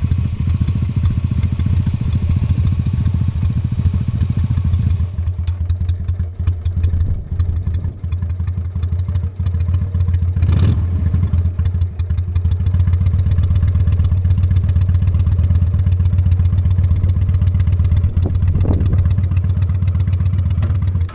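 Honda Steed V-twin motorcycle engine running steadily while riding, with wind and road noise over it. The wind hiss falls away about five seconds in, and there is a single brief knock about halfway through.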